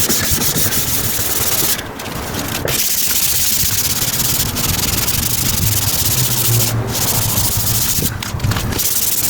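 240-grit wet-and-dry abrasive paper rubbed by hand over a plastic car headlight lens, dry-sanding off the weathered top layer and the scratches, in quick back-and-forth strokes with a few short breaks.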